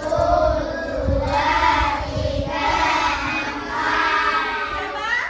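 A class of young children singing together in chorus.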